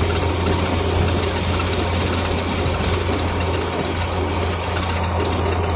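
Steady engine and road noise from inside a moving car's cabin, with a constant low hum.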